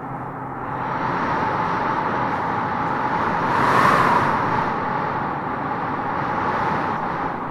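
Howling wind gusting through tropical trees: a steady rushing noise that swells into a stronger gust about halfway through, then eases back.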